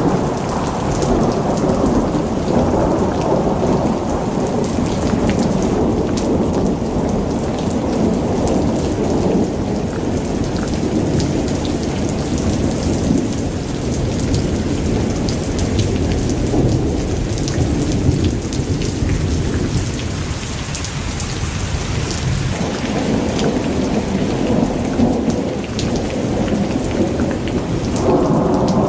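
Thunderstorm: steady rain with long, continuous rolls of thunder. The rumble eases briefly about two-thirds of the way through and builds again near the end.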